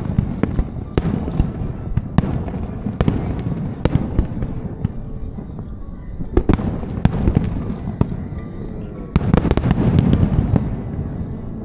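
Fireworks display: aerial shells bursting one after another as sharp bangs over a continuous low rumble, with a quick volley of bangs near the end.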